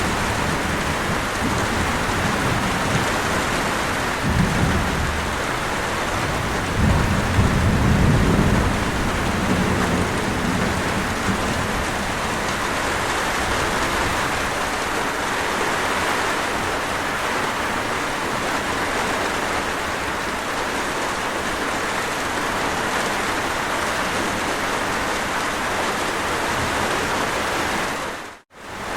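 Steady heavy rainfall in a thunderstorm, with low rolls of thunder twice in the first third. Near the end the sound cuts out abruptly for a moment and then resumes.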